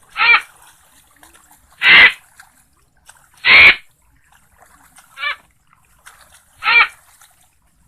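Frogs calling: six short, loud calls with a hoarse, ringing tone, about one every one and a half seconds, some louder than others, over a faint high hiss.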